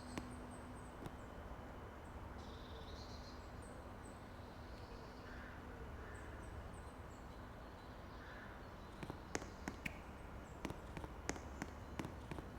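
Outdoor background hum with small birds chirping in short, high notes. From about nine seconds in, a run of sharp, irregular clicks and taps.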